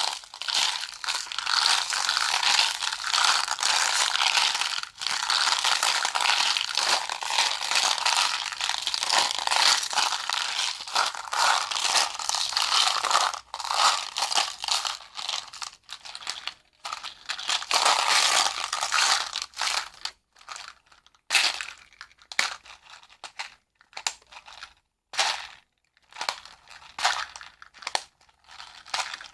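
Close-up crinkling and crumpling of a crinkly material being handled, dense and continuous at first, then breaking into separate short crackles with pauses in the last third.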